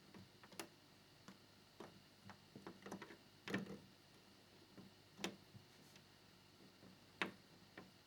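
Light, irregular clicks and taps of small plastic model parts and a screwdriver being handled, with two sharper taps at about three and a half and seven seconds.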